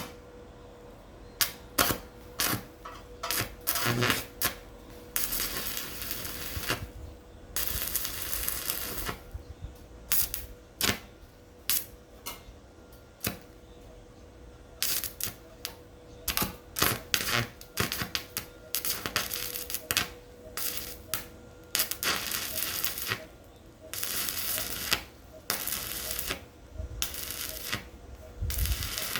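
Hand-tool work on a brazier build: irregular clicks and knocks mixed with scraping strokes about a second long, with a faint steady hum under them.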